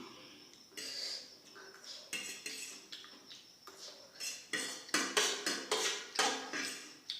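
Cutlery scraping and clinking against a plate of chowmein and gobi manchurian, in a quick run of strokes that is loudest a little past the middle.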